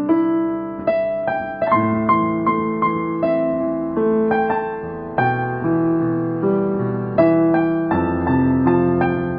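Background piano music: a gentle melody over slow chords, notes struck and left to fade.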